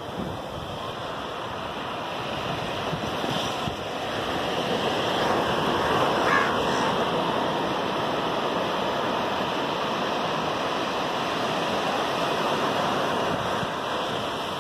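Sea surf washing on a sandy beach, with wind on the microphone; the rush of water swells about four to six seconds in and eases off near the end.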